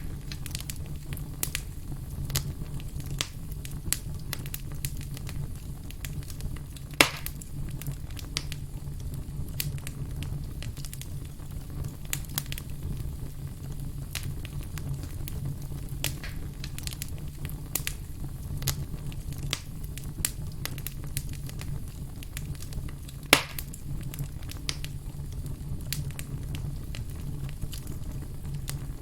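Wood campfire burning with a steady low rumble and frequent small crackles, and two louder sharp pops about a third and four-fifths of the way through.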